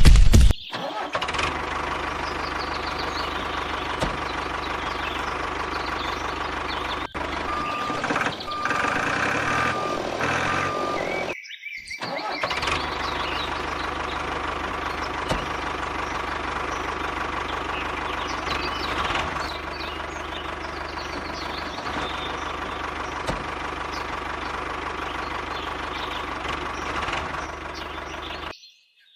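Engine running steadily across several cut-together clips, with a short row of evenly spaced beeps about eight seconds in.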